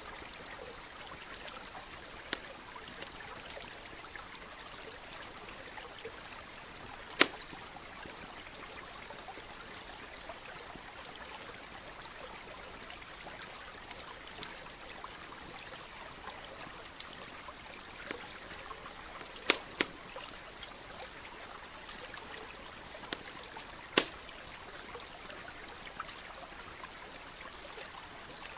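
Wood campfire crackling with scattered sharp snaps and a few loud pops, over the steady rush of a nearby stream.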